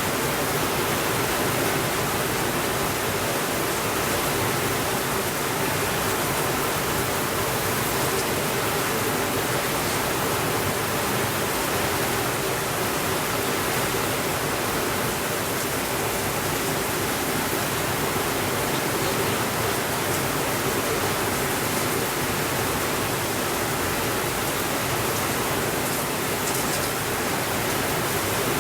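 Steady rainfall, a continuous even hiss with no thunder.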